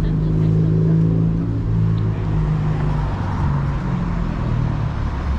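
A motor vehicle's engine running at low revs, a steady low hum that shifts slightly in pitch, over general street noise.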